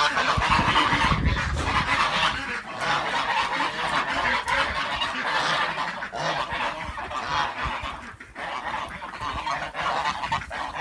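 A flock of domestic geese honking, many calls overlapping into a continuous clamour. A low rumble sits under it in the first two seconds.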